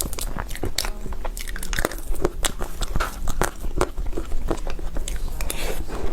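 Close-miked biting and chewing of a bear-shaped cake: many quick, irregular, sharp clicks and mouth sounds.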